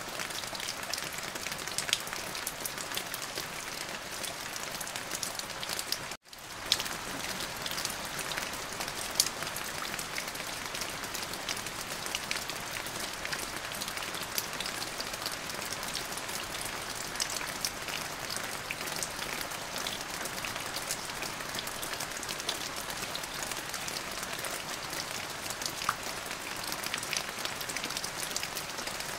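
Steady rain falling on a surface, a dense hiss full of separate drop ticks. About six seconds in it cuts out completely for a moment, then fades back in, like a splice in a looped recording.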